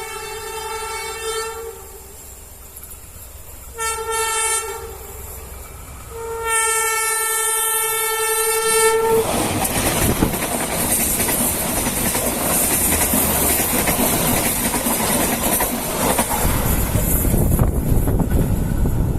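Train horn sounding one steady single-pitched note in three blasts: one that ends about two seconds in, a short one around four seconds, and a longer one from about six and a half to nine seconds. The horn then gives way to the loud rolling noise of the train running past, wheels clacking over the rails.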